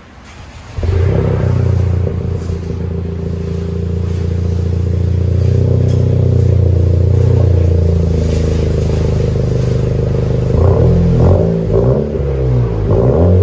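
2019 Honda Civic Si's 1.5-litre turbocharged four-cylinder, with resonator and rear muffler deleted, heard through the exhaust. It starts up about a second in and idles steadily, then is revved in several short blips near the end.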